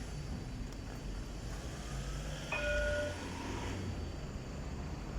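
Low steady rumble of a train near the line, with a short horn blast of a few held notes about two and a half seconds in.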